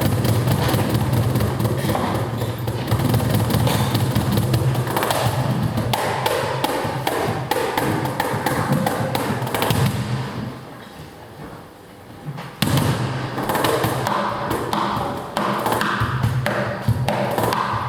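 Cajón played by hand in a rapid flamenco rhythm of dense strikes, breaking off for about two seconds just past halfway and then coming back in suddenly.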